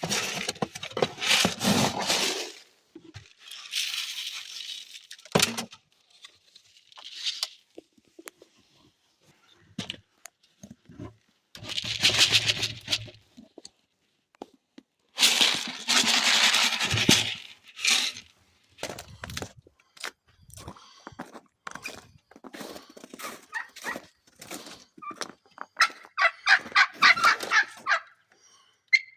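Farmyard poultry sounds: several loud bursts of rustling noise and scattered clicks and pecks, with a turkey gobbling near the end.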